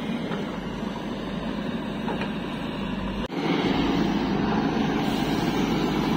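Heavy diesel engine running steadily, with an abrupt cut about three seconds in, after which it is louder.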